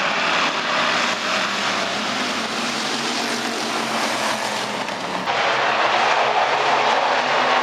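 Stock cars racing around a track, their engines making a loud, dense, steady noise that gets louder about five seconds in.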